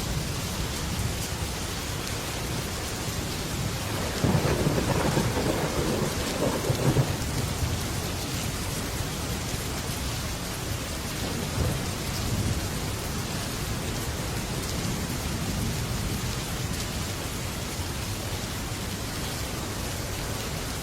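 Heavy rain falling steadily on a metal roof, with a roll of thunder that swells about four seconds in and rumbles for a few seconds, and a fainter rumble later.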